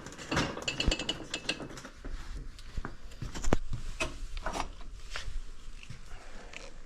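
Irregular clicks, knocks and light rubbing of hard objects being handled, with no engine running; the sharpest knocks come in the first four seconds.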